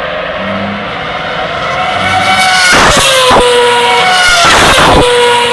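Formula One cars racing, their high-revving 2.4-litre V8 engines whining steadily; two cars rush past close by, about a second and a half apart, one engine pitch dropping as it passes.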